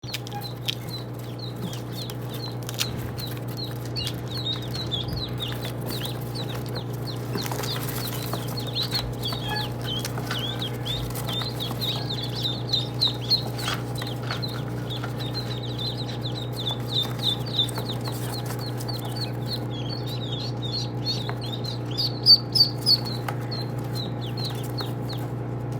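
A group of ducklings peeping: a constant chorus of short, high peeps, a few louder ones standing out, over a steady low hum.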